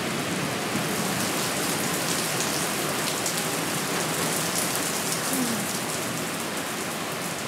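Thunderstorm downpour: heavy rain starts suddenly right at the start and then pours steadily, a dense hiss with fine crackle of drops hitting nearby surfaces.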